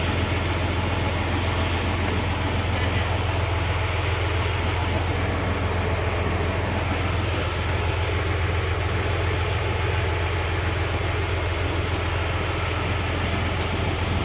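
Tourist motorboat's engine running steadily at low speed, a constant low hum with noise from the boat and water over it.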